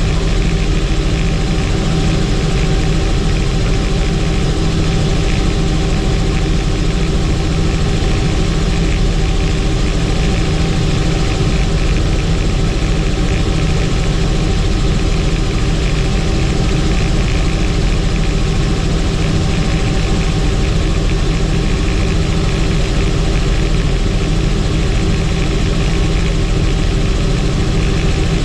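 Helicopter in flight: steady, loud engine and rotor noise with a constant hum and no change in pitch.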